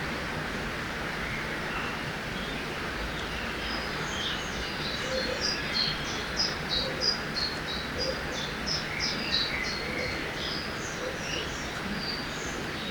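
Forest ambience by a river: a steady rush of flowing water, with a bird calling in a quick series of short, high chirps from about four seconds in, busiest in the middle and thinning out near the end.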